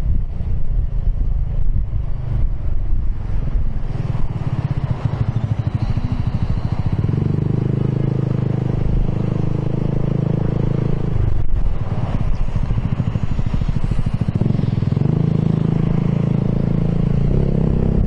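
Piaggio X10 scooter engine with an aftermarket Akrapovic exhaust, running while riding. It holds a steady note twice, easing off in between.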